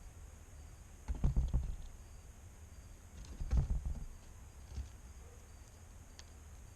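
Two clusters of soft knocks and scrapes close to the microphone, about a second in and again about three and a half seconds in, with a single tap near five seconds: a squirrel moving about and handling nuts at the feeder. A steady high insect chirring runs underneath.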